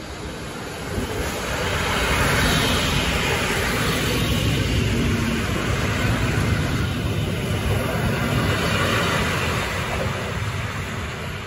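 Electric multiple unit passenger train passing close by, with steady wheel-and-rail running noise. It grows louder about a second in as the cars draw alongside and eases off near the end as the train moves away.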